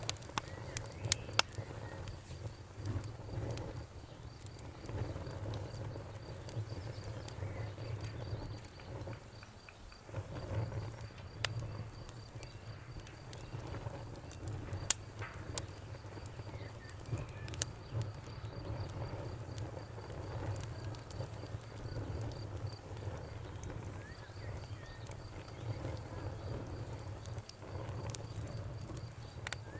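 Wood fire crackling, with scattered sharp pops over a low flickering rumble, while a cricket chirps rapidly and steadily in a high, thin pulse.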